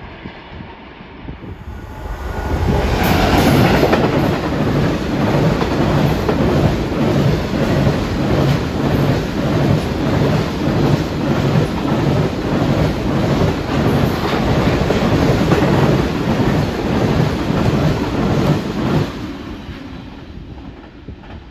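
A diesel-hauled freight train passing close by. It arrives loudly about two seconds in, then its wagons rattle past with a steady clickety-clack of wheels over the rail joints, and the sound fades away near the end.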